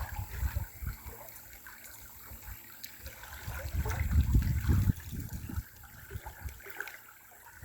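River water trickling and flowing, with low rumbling thuds that come and go and are loudest about four to five seconds in.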